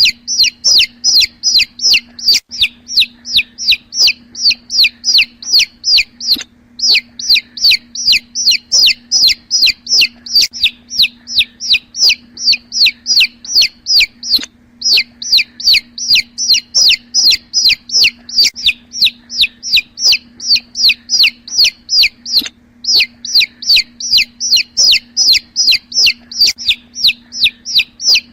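Young chicks peeping continuously: a dense run of short, high, downward-sliding peeps, about three or four a second with only brief pauses, over a faint steady low hum.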